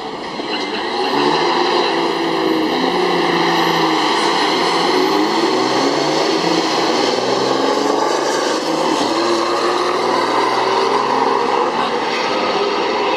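Turbo-diesel drag trucks' engines running loud, their pitch drifting up and down, growing louder about a second in and then holding steady.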